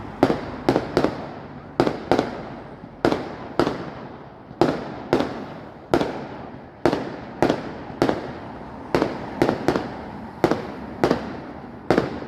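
Fireworks display: about twenty sharp bangs of bursting shells at irregular spacing, sometimes two or three in quick succession, each trailing off in a rolling echo.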